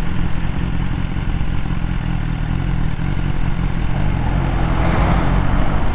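BMW S1000R's inline-four engine running steadily while the bike is ridden, with a hiss of wind and road noise that grows about five seconds in.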